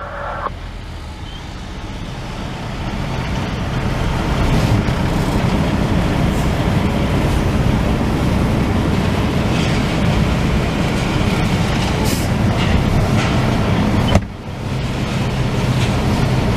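Semi truck's engine and road noise heard from inside the cab, growing louder over the first few seconds and then running steadily, with a brief break near the end.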